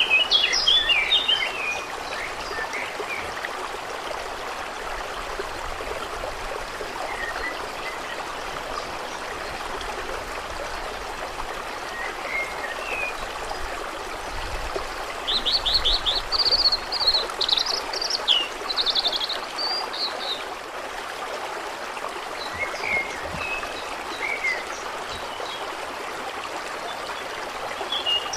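Steady flowing, trickling water with songbirds calling over it. There is a burst of calls at the start, a rapid run of chirps about halfway through, scattered single chirps, and more calls at the very end.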